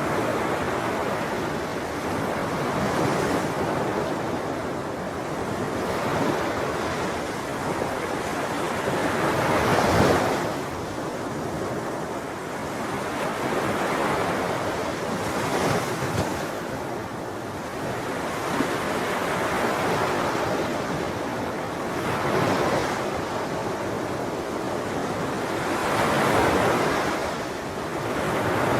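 Ocean waves breaking and washing on a shore, a continuous rush of surf that swells and recedes every few seconds, one wave breaking loudest about ten seconds in.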